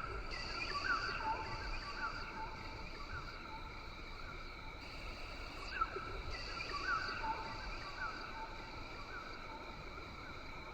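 Rain forest ambience: a steady high insect drone in several layered bands, with short chirping animal calls repeating every second or so over a low background rumble.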